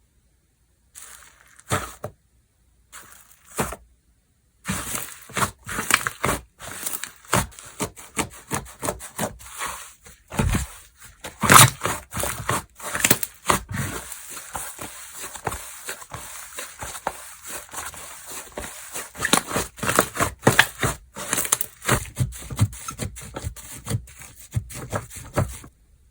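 Hands squishing, poking and stretching slime: a dense run of sticky clicks, pops and crackles, with a few short silent pauses in the first few seconds.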